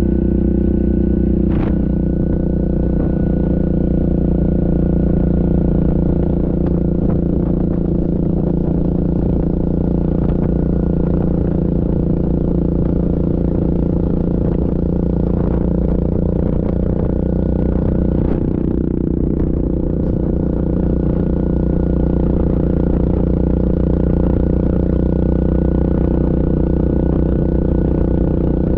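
Yamaha Grizzly ATV engine running steadily under way, its drone holding an even pitch, with an occasional click or rattle.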